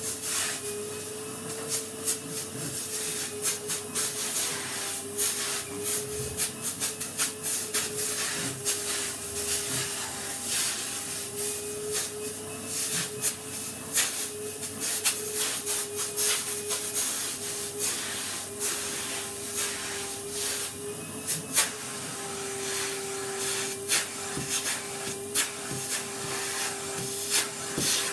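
Vacuum cleaner running with a steady whine over a constant hiss, its pitch dropping slightly about two-thirds of the way through, with many quick scratchy clicks of rubbing on a wooden tabletop.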